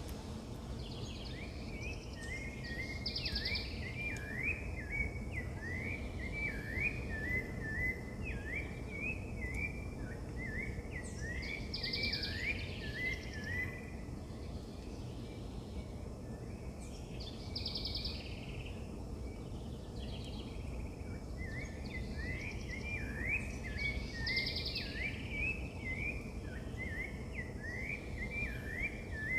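Wild birds singing in long runs of quick, repeated chirping notes, in two bouts with a lull in the middle, over a steady low background rumble.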